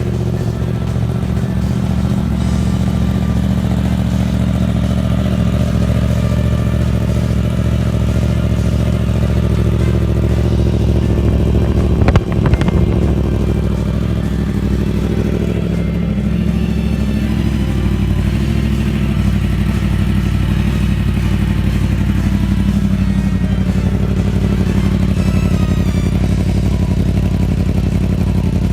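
Motorcycle engine of a 2015 Yamaha R1, a crossplane inline-four, running steadily through a Two Brothers aftermarket exhaust. A single sharp knock comes about twelve seconds in.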